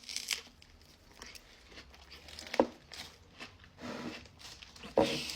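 Quiet rustling and handling sounds of chocolate-dipping strawberries, with two sharp clicks, one about halfway through and one near the end.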